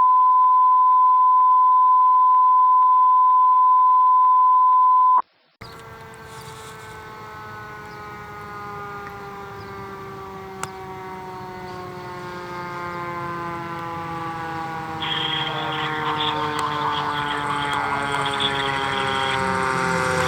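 A loud, steady single-pitch tone lasting about five seconds, which cuts off. After a moment's gap comes a fire apparatus siren with a slowly falling pitch, growing louder, with a hiss joining near the end.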